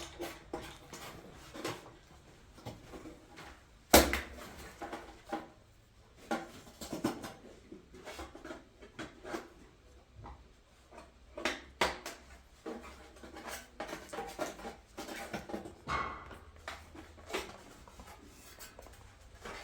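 Scattered knocks, clicks and clatter of parts and tools being handled while a gas heater is being fitted, with one sharp loud knock about four seconds in.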